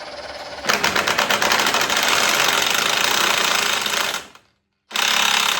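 A power tool hammering rapidly as it drives bolts up to draw the transmission into place: one long run of about three and a half seconds, then a short burst near the end.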